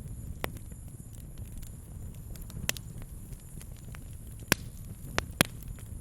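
Wood campfire crackling: scattered sharp pops, the loudest few in the last second and a half, over a low steady rumble.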